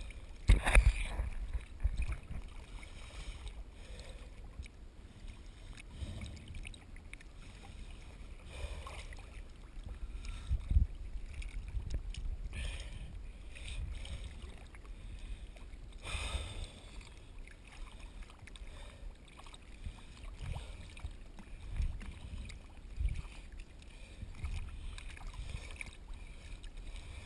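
Low rumbling water noise, sloshing around the camera at the surface, with a few sharp knocks, the loudest about a second in and another near 11 seconds.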